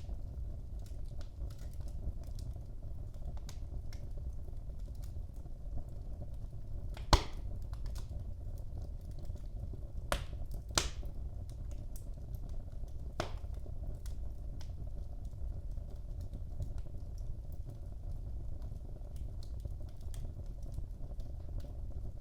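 Wood fire burning in a fireplace: a steady low rumble of the flames with scattered faint crackles and a few sharp pops, the loudest a little over 7 seconds in and others around 10, 11 and 13 seconds.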